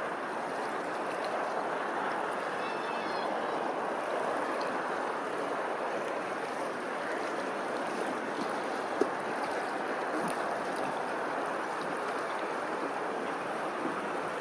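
Running water rushing steadily, with a faint, short high chirping about three seconds in and a single sharp tick about nine seconds in.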